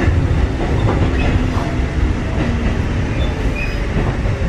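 Kotoden 1300 series electric train car (ex-Keikyu 1000 series) running at speed, heard inside the passenger cabin: a steady loud rumble of wheels on the rails and running gear, with a few short faint squeaks.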